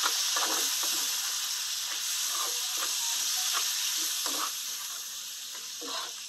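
Goat tripe frying with tomatoes in a metal pan: a steady sizzle as the liquid cooks down, with a metal spoon scraping and knocking against the pan as it is stirred, many short times.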